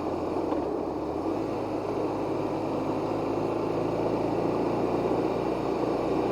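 Motorcycle engine running under way, with steady road and wind noise. Its low engine note steps down and back up about a second in.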